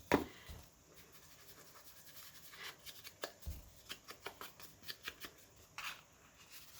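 A handmade paper tag being inked by hand: a string of soft dabs, rubs and scratches against the paper, with a sharper knock right at the start and a dull thump about halfway.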